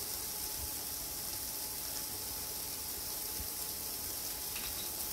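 Cauliflower florets sautéing in melted butter over medium heat, a steady sizzle.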